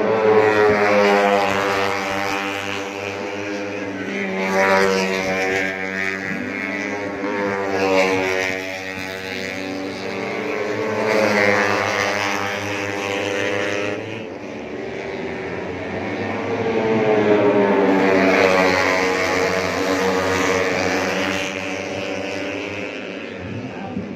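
Four-stroke 150cc underbone race motorcycles running on the circuit, several engines at high revs whose pitch swells and falls repeatedly as the bikes pass and shift.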